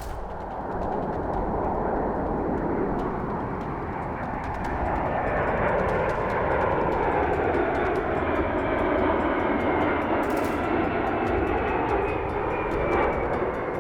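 A large propeller or jet aircraft flying past, its engine noise swelling and holding loud through the middle. A high whine slowly falls in pitch in the second half as it passes.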